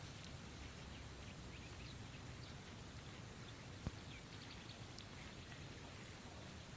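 Faint, scattered chirps of small birds over a steady low background rumble, with one sharp click about four seconds in.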